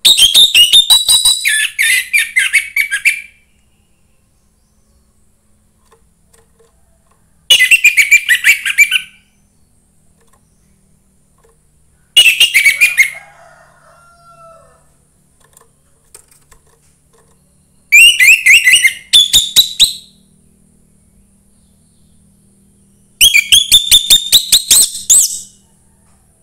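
Young wild orange-headed thrush singing in five short bouts of rapid, repeated high notes, each bout lasting one to three seconds, with pauses of a few seconds between them.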